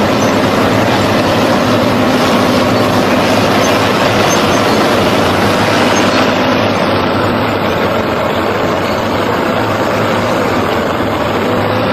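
Heavy tractor diesel engine running steadily.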